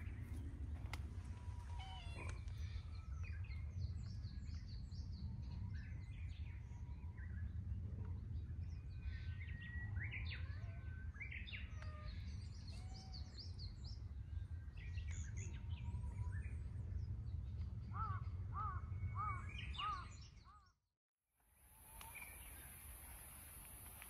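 Small birds chirping and trilling in short scattered calls over a steady low rumble, with a quick run of about six repeated calls late on. Near the end the sound drops out for about a second and comes back quieter, with a steady high hiss.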